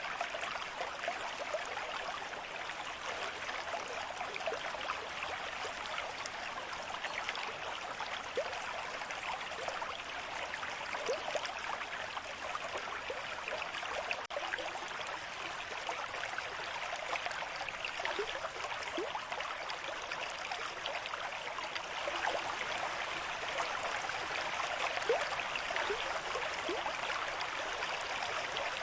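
Running water flowing steadily, with many small bubbling notes throughout.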